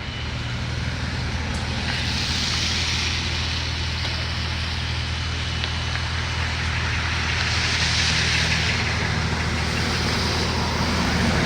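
A heavy machine's engine running steadily with a low, even hum, with a noisy hiss above it that swells and fades a few times.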